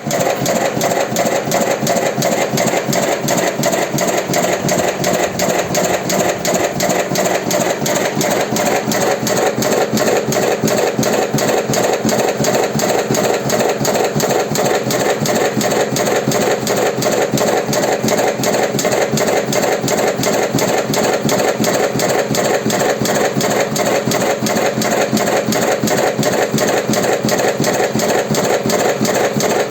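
Automatic electric cigarette-rolling machine running, its mechanism cycling in a fast, even rhythm as it fills tubes with tobacco.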